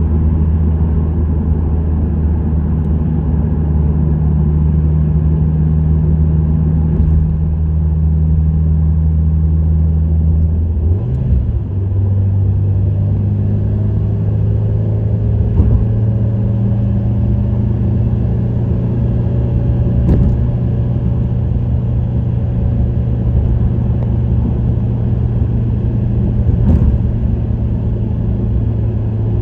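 Subaru WRX STI's turbocharged EJ20 flat-four, breathing through an STI Performance muffler, cruising at steady revs with a steady exhaust rumble. About 11 seconds in the sound dips briefly and the engine comes back at a higher steady pitch, as with a shift down a gear, then holds there over tyre and road noise.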